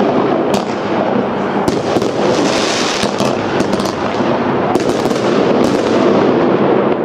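Fireworks going off in a dense, continuous barrage: many bangs and crackles overlapping, with a brighter hissing crackle about two to three seconds in.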